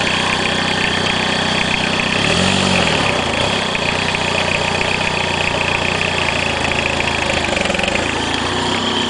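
Peugeot 306 1.9 turbo-diesel engine idling steadily, revved briefly about two seconds in, the pitch rising and then falling back to idle.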